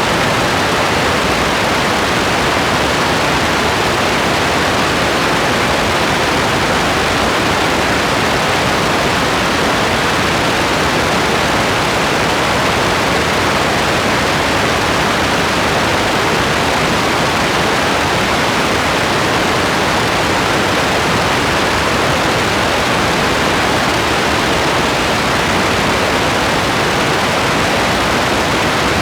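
Steady rain, an even, unchanging hiss.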